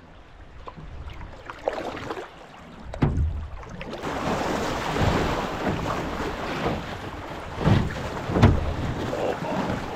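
Canoe moving down a river: water rushing and splashing against the hull, with wind buffeting the microphone. The noise grows louder about four seconds in, and a few sharp knocks and splashes of paddle strokes stand out, the loudest near the end.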